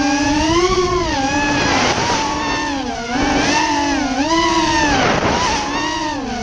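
Racing quadcopter's four brushless motors and props whining, the pitch rising and falling repeatedly as the throttle is worked, with dips about three seconds in, a second later, and near the end. Low wind rumble runs underneath.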